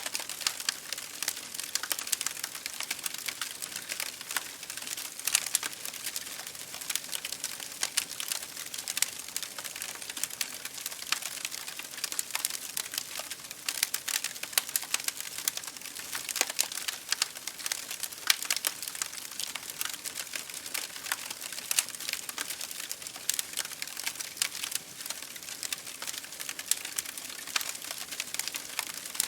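Wood fire crackling in a fireplace, a dense run of small pops and snaps, over rain pattering on a window pane.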